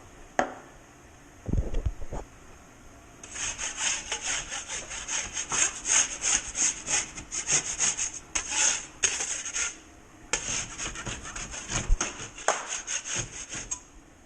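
Hand saw cutting with quick back-and-forth strokes, several a second, in two runs with a short break between them. A click and a dull knock come just before the sawing starts.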